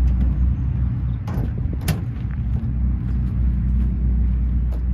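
A motor vehicle engine running steadily at low revs, with a low rumble and a couple of sharp clicks about one and two seconds in.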